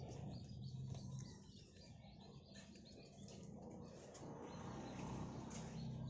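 Faint, scattered bird chirps over a low, steady background hum.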